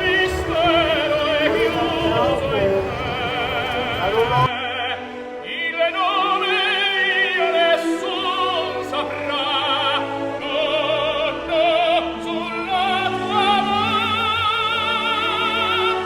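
Operatic singing with orchestral accompaniment: a voice with wide vibrato holding long notes over sustained strings. A low rumble lies beneath it for the first four seconds or so and cuts off suddenly.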